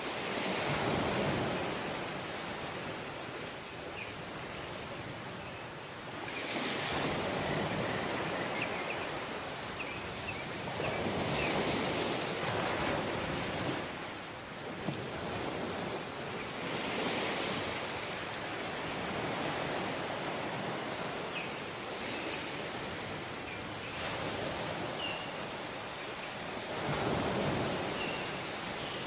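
Surf on a tropical beach: waves washing in and drawing back, swelling every few seconds, with scattered faint chirps. A steady high insect buzz starts near the end.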